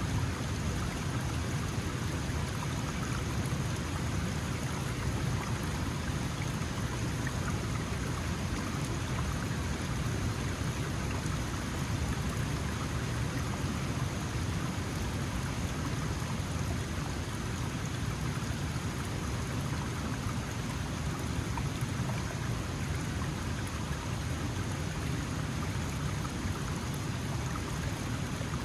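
Small mountain stream flowing steadily over rocks, a continuous rush and babble of water.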